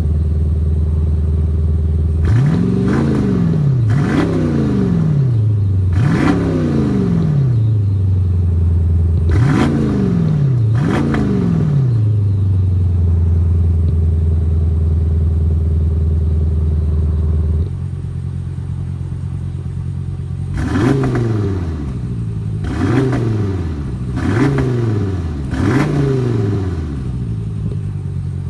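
BMW X7 (G07) engine idling and revved in short blips, each rising quickly and falling back to idle: five in the first half. About 18 seconds in the idle turns quieter, followed by four more quick blips.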